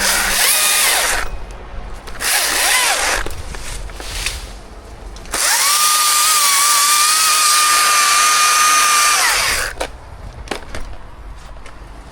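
Electric chainsaw run in three bursts, two short and then a longer one of about four seconds. Each time its motor whine rises as it spins up and falls away as it stops.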